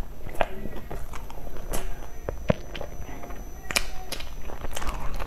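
Close-miked chewing: irregular wet mouth clicks and smacks as a mouthful of crumbly floss-coated pastry is chewed, with another bite taken about four seconds in.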